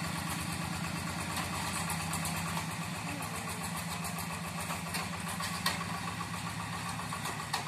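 Two-wheel rice-field hand tractor's single-cylinder diesel engine running steadily with a fast, even chugging. A sharp clack comes about two-thirds of the way through, and another near the end.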